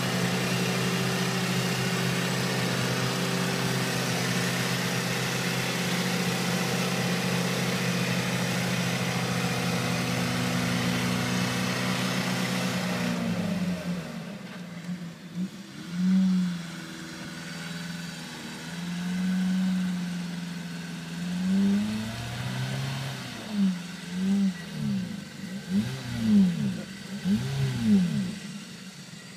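Off-road vehicle's engine running at a steady speed. About halfway through it drops back and is then revved again and again in short bursts, its pitch rising and falling.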